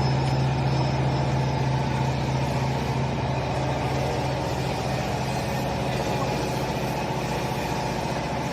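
Full-automatic horizontal baler running with its hydraulic power unit, a steady low machine hum that holds constant throughout.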